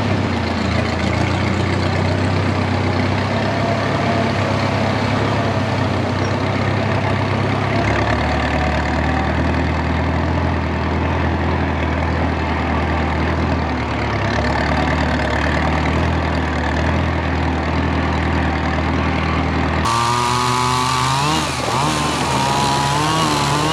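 1947 Case Model S tractor's four-cylinder engine running steadily after ignition repairs, its note shifting lower about eight seconds in. In the last few seconds the sound changes abruptly to one with a wavering pitch.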